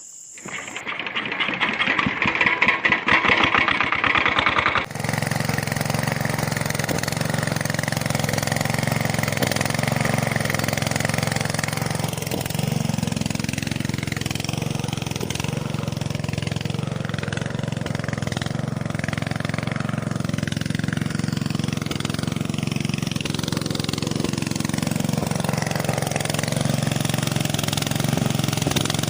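A small engine cranking with a fast, rattling clatter for about five seconds, then running steadily with a low hum.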